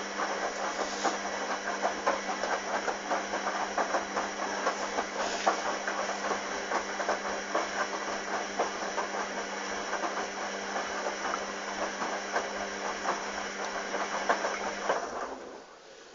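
Hoover Dynamic washing machine running: a steady hum with rushing, splashing water and rapid small clatters, cutting off suddenly about fifteen seconds in.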